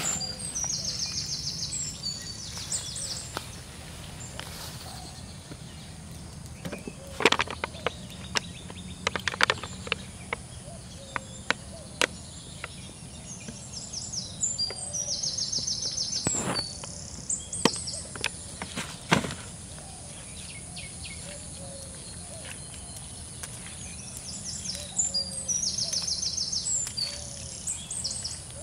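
Outdoor ambience with a bird repeating a short, high trilled song three times, about ten to twelve seconds apart, over a steady low hum. A handful of sharp clicks and taps come in the middle stretch.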